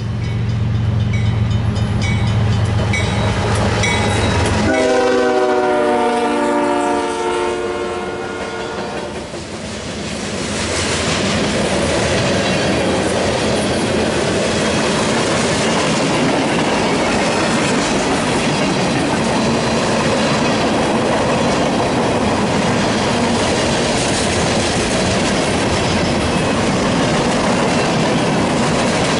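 Diesel freight locomotive passing close by, its engine running heavily for the first few seconds. Its horn then sounds a chord of several notes for about four seconds, for the grade crossing. After that a long string of freight cars rolls by, with a steady rumble and clickety-clack of wheels over the rail joints.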